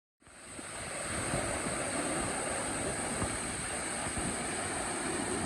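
Waterfall rushing steadily, starting abruptly just after the start.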